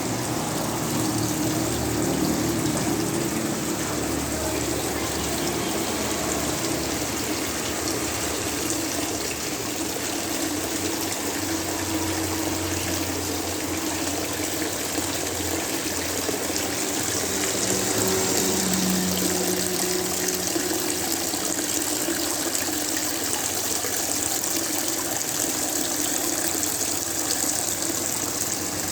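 Water falling and splashing steadily in a small home waterfall fountain, with a faint low hum underneath.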